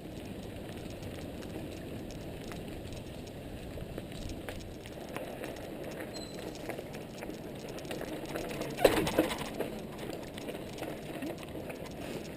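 Mountain bike rolling over a dirt trail: a steady rumble of tyres on the ground with scattered small clicks and rattles, and a louder clattering burst about nine seconds in.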